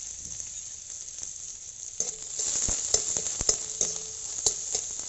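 Chopped garlic, chilli and onion sizzling in hot oil in a metal wok (kadai). From about two seconds in, a spatula stirs them, scraping and clicking against the pan.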